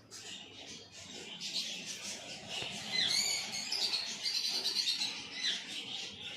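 Many caged small birds chirping and twittering at once: a dense chorus of high, quick chirps with a few short rising glides, loudest through the middle.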